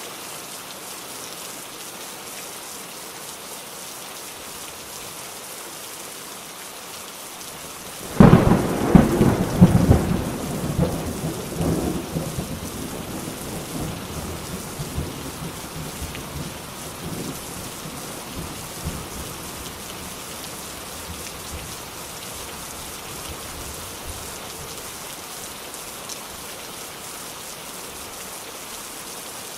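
Steady heavy rain falling, with a sudden loud thunderclap about eight seconds in that rolls and crackles for several seconds before fading back into the rain.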